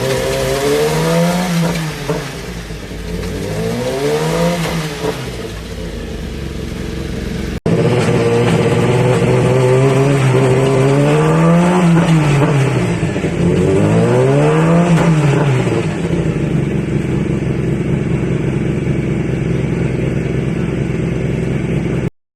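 World Superbike racing motorcycle engine revving up and back down in pitch, twice before a cut about a third of the way in and twice after it, then running at a steady pitch until the sound cuts off just before the end.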